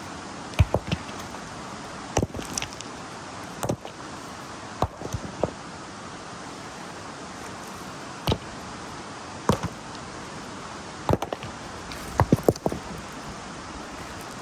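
Rocks clacking and knocking as they are picked up and tossed aside to clear and level a tent site, a sharp knock every second or two, sometimes two or three in quick succession, over the steady rush of a river.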